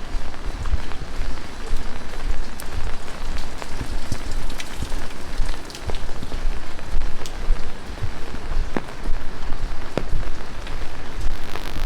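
Heavy rain pouring steadily, with single drops ticking sharply close by against the hiss of the downpour.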